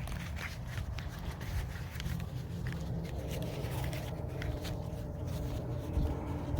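Wind rumbling on the microphone, with scattered clicks and rustles, and a faint steady hum of several tones coming in about halfway.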